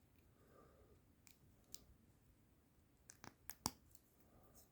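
Faint clicks of plastic Lego Technic pieces being handled and pressed together: a single click, then a quick run of about five clicks over half a second.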